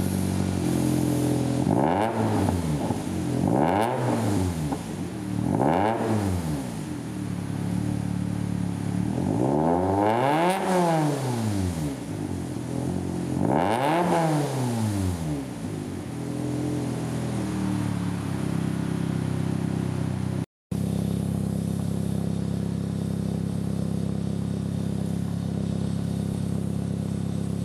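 Subaru Impreza WRX STI's 2.0-litre turbocharged flat-four, heard through a 3-inch cat-back exhaust, blipped five times: three short revs, then two longer, higher ones. It then settles into a steady idle.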